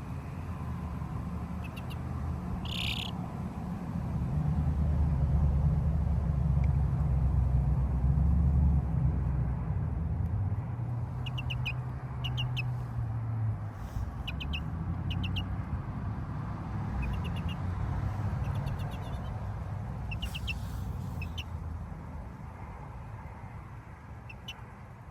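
A low rumble that swells for a few seconds and then eases off. Over it come short, high bird chirps in quick clusters, plus one longer high call near the start.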